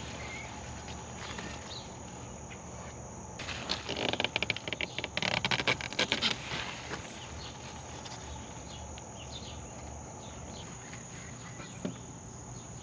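Insects, crickets by the sound, chirring steadily at a high pitch, with a stretch of rustling and crackling from about three and a half to seven seconds in.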